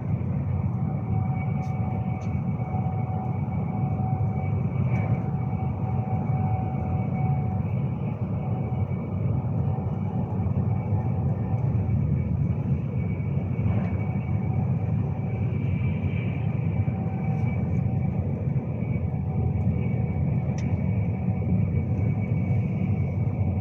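Steady running noise inside a Class 390 Pendolino electric train at speed: an even low rumble with a faint steady whine over it and a few small clicks.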